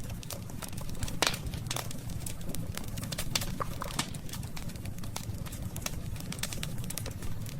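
Wood campfire crackling, with sharp pops and snaps scattered throughout, the loudest about a second in, over a steady low rumble.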